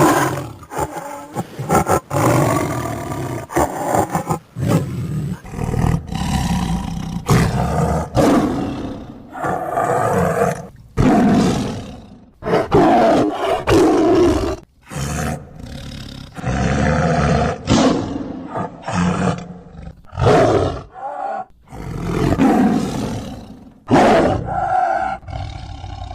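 Tiger roaring and growling: a long series of loud calls, one after another, with short breaks between them.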